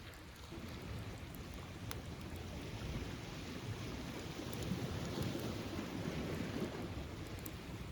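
Surf washing up a beach, swelling to its loudest about five to seven seconds in, with a few faint crackles from a beach bonfire.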